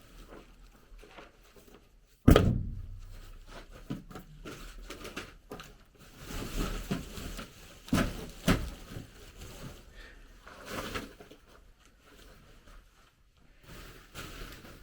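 Knocks and thuds of work in a small room: one sharp, loud bang about two seconds in, two heavier thumps near the middle, and lighter clattering in between.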